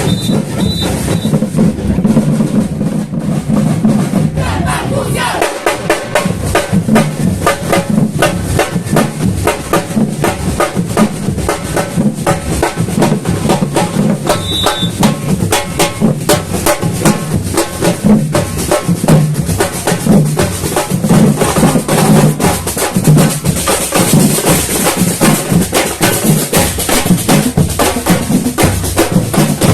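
Samba batucada percussion: bass drums and snare drums playing a dense, driving rhythm that settles into steady strokes about five seconds in. A short high tone is heard about halfway through.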